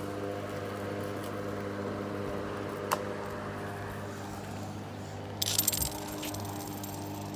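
A steady mechanical hum, with a single sharp click about three seconds in and a brief burst of clattering near six seconds.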